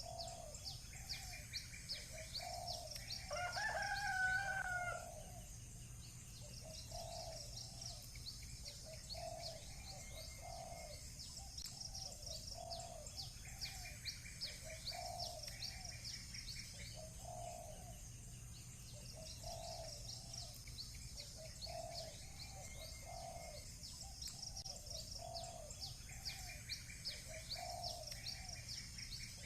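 Village ambience with a rooster crowing once, a few seconds in, over small birds chirping constantly and a lower call repeated about once a second.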